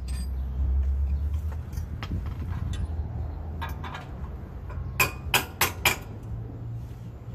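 Metal hand tools knocking and clinking on steel hardware, with a group of four sharp strikes close together about five seconds in, over a low steady rumble.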